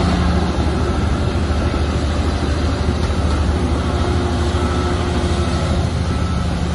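Large crawler bulldozer's diesel engine running steadily, with a dense mechanical rumble over it.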